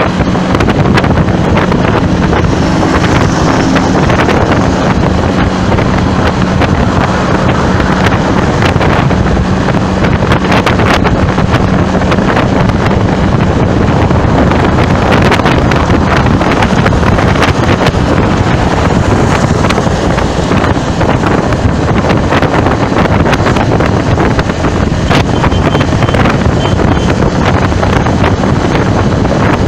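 Loud, steady wind buffeting the microphone, with a faint low hum underneath through most of it.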